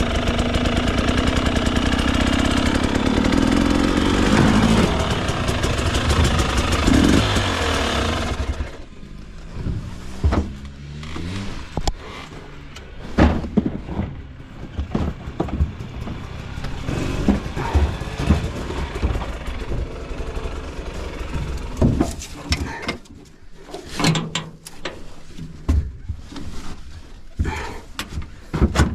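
A dirt bike engine running steadily, then cut off abruptly about eight and a half seconds in. It is followed by scattered knocks, clunks and rattles as the bike is handled and loaded.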